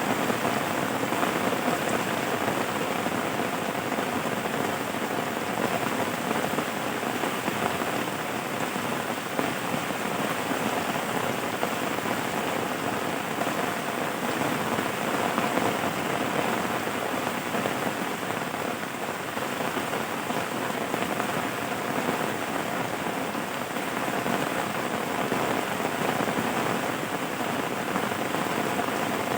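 Steady rain falling on a surface, an even hiss with no breaks or distinct impacts.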